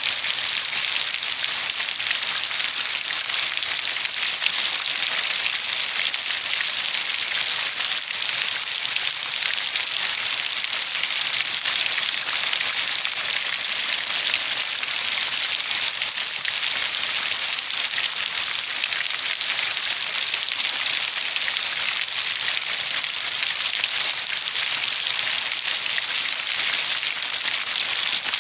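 Steady rainfall pattering on a surface, an even hiss of many fine drops with no breaks.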